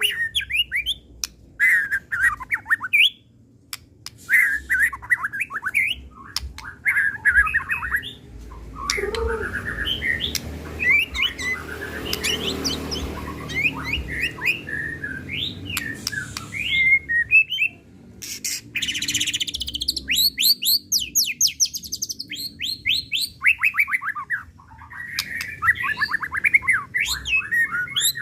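White-rumped shama (murai batu) singing an agitated, varied song of whistled phrases and harsh notes. About two-thirds of the way through it gives a long run of fast repeated notes.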